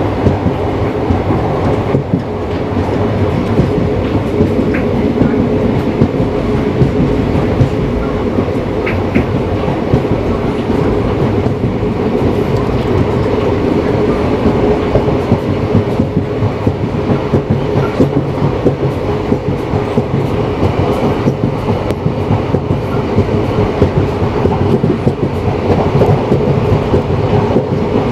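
Indian Railways express train running along the track: a steady rumble with continuous wheel-on-rail clickety-clack and a steady hum underneath.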